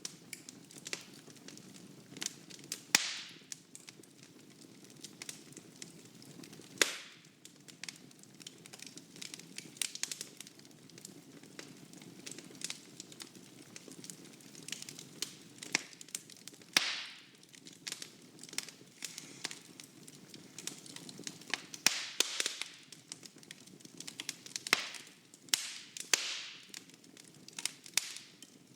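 Wood fire burning in a fireplace: a low steady hiss broken by irregular crackles and sharp pops of burning logs, a few of them loud snaps.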